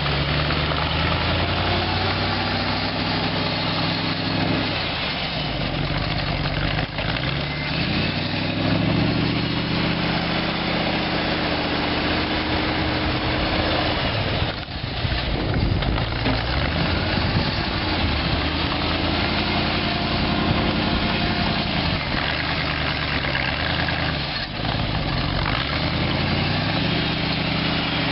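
The Chrysler 318 V8 of a homemade articulated tractor running, its engine speed rising and falling in long swells every few seconds, with a brief drop about halfway through.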